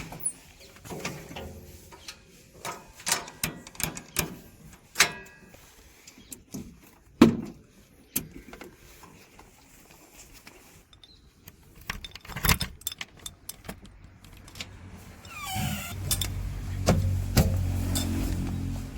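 Scattered sharp metallic knocks and clanks, then a diesel engine revving up with a rising whine and running louder through the last few seconds.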